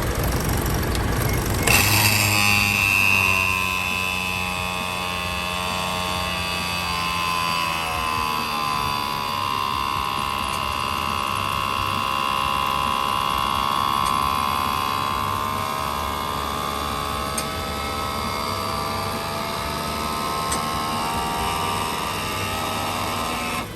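High whine of an electric motor, the truck's cab-tilt pump raising the cab to open the engine bay. It starts sharply about two seconds in and runs on with a slowly wavering pitch over a low engine hum.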